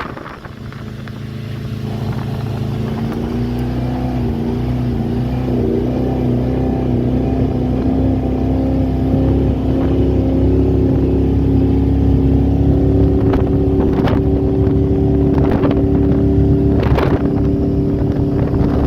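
Mercruiser 454 Magnum MPI big-block V8 in a Baja H2X powerboat accelerating. Its pitch climbs unevenly over the first few seconds and then holds steady as the boat runs at speed. The unevenness is the misfire on launch that the owner says needs a tune-up.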